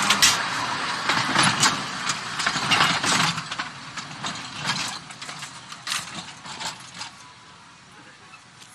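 Irregular mechanical clicking and clattering over a running hum, growing steadily fainter until it has almost died away near the end.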